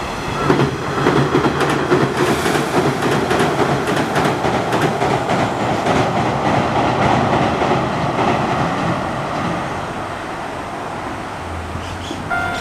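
Nishitetsu 6000-series electric commuter train crossing a steel girder railway bridge: a loud steady rumble with wheels clattering over the rail joints, dying away over the last few seconds.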